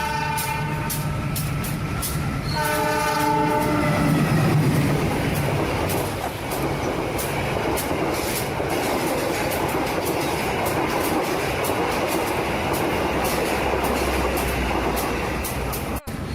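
Train horn blowing in two blasts, the second starting about two and a half seconds in. Then the steady rumble of a running train with a quick clickety-clack of wheels over rail joints, broken by a sudden short cut near the end.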